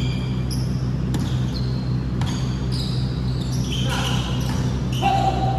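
Sport shoes squeaking on an indoor court during play: short high squeaks every half second or so, with a few sharp knocks, over a steady low hum.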